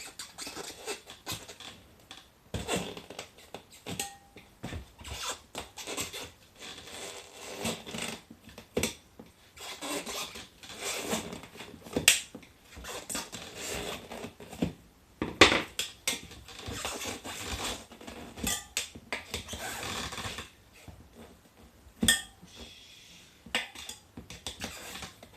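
Hand tyre-changing work on a motorcycle wheel: metal tools clinking and scraping against the rim and tyre, with irregular knocks and a few sharp metal strikes, as the tyre bead is worked loose.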